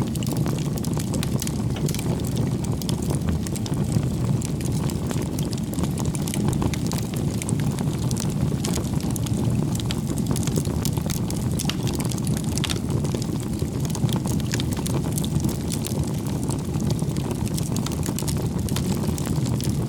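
Wood campfire burning: a steady low rush of flames with frequent small crackles and pops.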